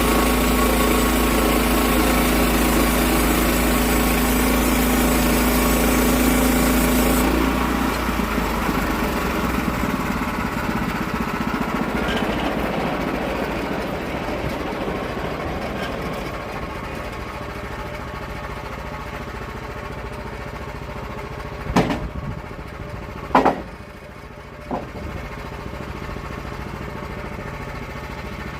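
The gas engine of a log-milling saw runs steadily. About seven seconds in the sound changes abruptly and dies down to a lower, rougher running. Three sharp knocks come near the end.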